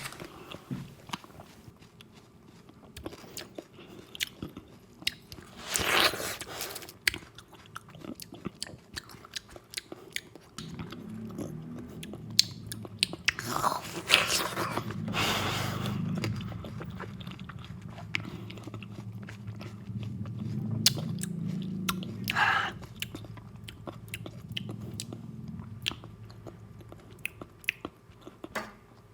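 Close-miked eating sounds of watermelon egg soup: wet chewing and mouth clicks throughout, with a few louder slurping smears around six seconds in, in the middle and about two-thirds through. A low steady hum sits underneath through the middle stretch.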